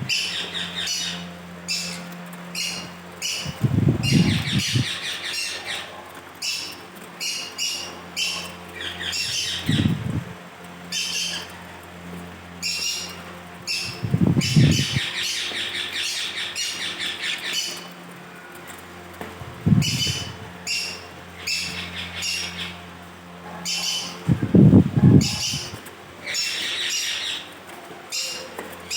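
Yellow Indian ringneck parakeets squawking and chattering, many short sharp calls repeated throughout. A steady low hum runs underneath, and dull low thumps come about every five seconds.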